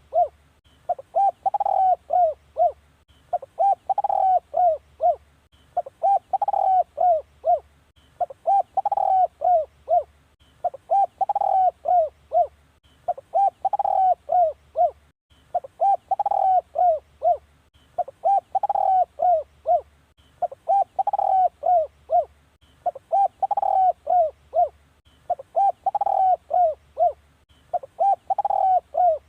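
Spotted dove cooing: a phrase of several quick, arching coos repeated steadily, one phrase about every two seconds.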